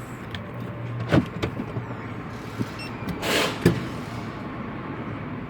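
A car engine idling steadily while a car door is opened, with a few sharp clicks and knocks from the door and a brief hiss a little after three seconds in.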